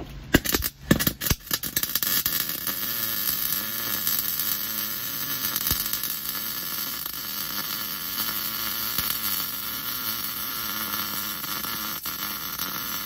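Wire-feed welder arc: a few stuttering pops as the arc strikes, then a steady crackling hiss as a weld bead is run.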